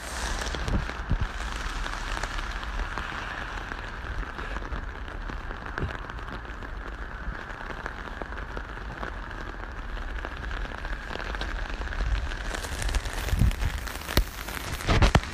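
Heavy rain falling steadily, pattering on an open umbrella overhead and splashing into puddles on the flooded path. It grows louder and more uneven near the end.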